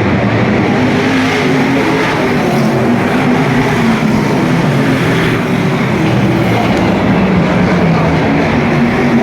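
V8 stock car engines running hard on an oval track: a loud, continuous engine noise whose pitch wavers up and down.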